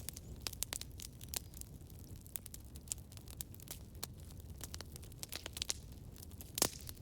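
Campfire crackling: many small, irregular pops and snaps over a low, steady rumble, with one louder pop near the end.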